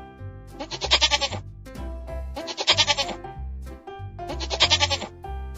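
Goat bleating three times, each bleat a short quavering call about half a second long, over background music with steady bass notes.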